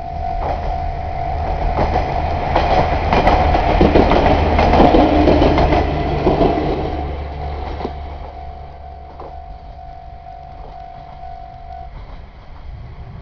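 A diesel train passing over a level crossing, loudest about four to seven seconds in, its wheels clacking over the rail joints, then fading. Under it the crossing's warning bell rings steadily and cuts off about twelve seconds in, as the crossing clears.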